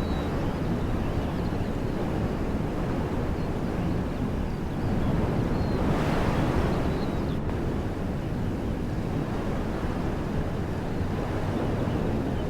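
Wind blowing through trees: a steady rushing that swells into a stronger gust about five to seven seconds in. Faint bird chirps now and then.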